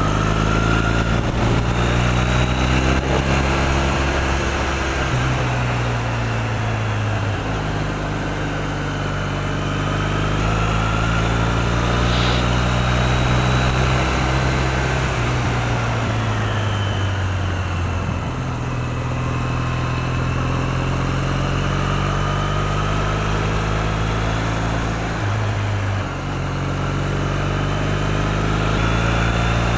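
2008 Triumph Bonneville's parallel-twin engine running under way, its note slowly rising and falling with speed, with a brief drop in pitch and loudness near the end as it shifts gear, over steady wind rush.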